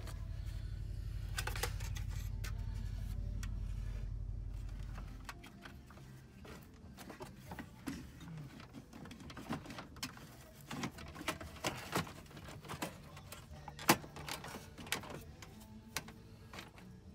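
A steady low hum that stops about five seconds in, then irregular clicks and knocks of parts and tools being handled during car audio wiring work, with one sharper knock near the end.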